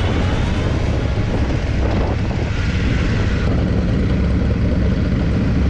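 Motorcycle riding on the road: a steady engine drone under constant wind rush.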